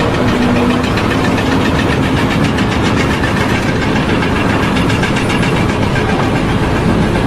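A loud engine-driven machine running steadily with a fast, even pulsing knock.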